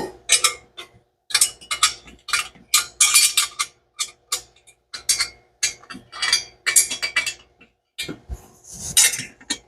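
A header wrench working on exhaust header bolts: irregular metallic clinks, clanks and scrapes of steel on steel in quick succession.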